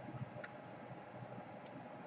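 A few faint, light ticks and taps from small tools being handled during hand work, over a low steady background hiss.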